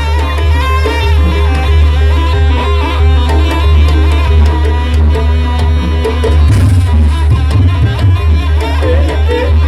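Traditional Banyuwangi Jaranan Buto music: a wavering, reedy wind melody over hand drums, gongs and a heavy bass, with the drumming growing busier about two-thirds of the way in.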